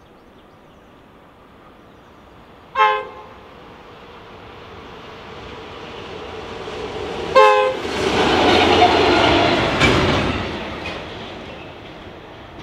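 Electric locomotive sounds two short horn blasts, the second about four and a half seconds after the first and louder. It then passes hauling a train of tank wagons: the wheel-and-rail rumble swells, peaks with a few sharp clacks, and fades away.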